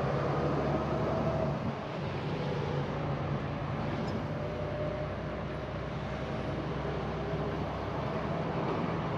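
Semi-truck's diesel engine and road noise heard from inside the cab while driving, a steady low hum.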